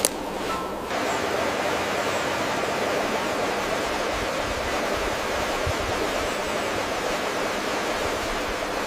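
Steady rushing water: a dense, even hiss that gets a little fuller and louder about a second in.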